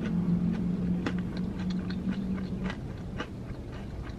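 A person chewing thick-breaded fried shrimp, with soft irregular crunches and mouth clicks. A low steady hum sits under the first part and stops a bit over halfway.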